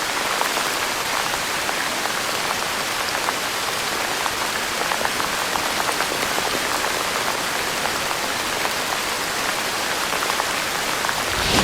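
Heavy rain falling steadily: a dense, even hiss with many small drop impacts.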